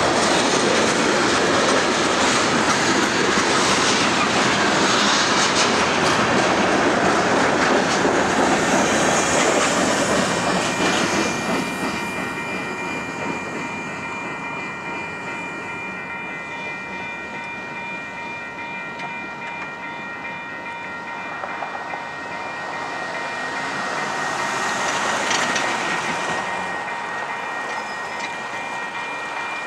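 Freight train cars rolling past on the rails, with wheels clacking over the joints. About a third of the way through the loud rumble falls away as the last cars move off, leaving a fainter rolling noise with steady high ringing tones and a brief swell near the end.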